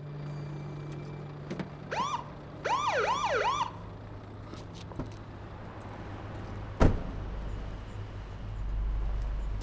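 Police car siren giving short whoop chirps, one about two seconds in and then three quick ones, over a car engine idling. A single sharp thump comes about seven seconds in.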